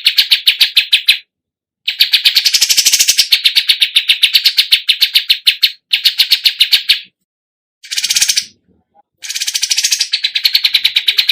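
A songbird singing a fast, evenly repeated chattering trill of about eight notes a second. It comes in phrases of a few seconds broken by abrupt silent gaps.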